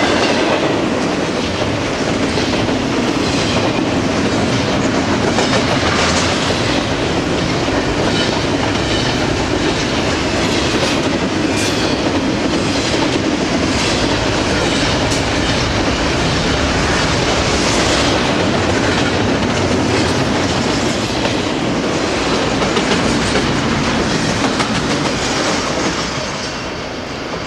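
Double-stack intermodal container freight train passing close by, with a steady noise of steel wheels on the rails. It grows quieter near the end as the train pulls away.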